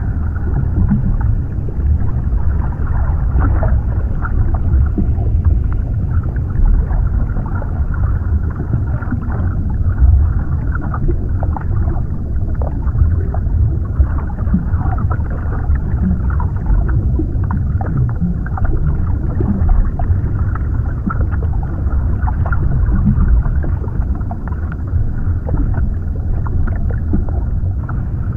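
Underwater ambience: a steady, muffled low rumbling wash with frequent small crackles and bubbly clicks, nothing bright above it.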